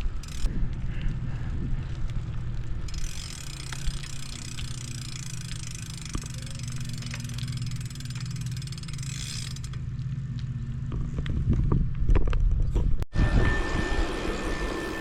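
Bicycle being ridden on pavement: a steady rumble of tyres and wind, with the rear freewheel ticking as it coasts. A few louder knocks and bumps come near the end.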